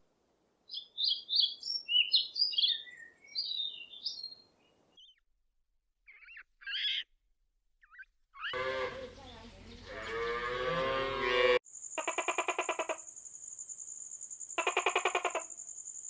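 Quick high bird chirps and twitters in the first few seconds. They are followed by several other animal calls: a longer call with many pitch lines, then two rapid pulsing calls over a steady high whine.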